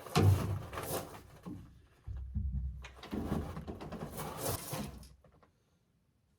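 PVC drain pipe and fittings being handled and pushed into place, with irregular scraping, rubbing and knocking and a low rumble about two seconds in, stopping abruptly about five and a half seconds in.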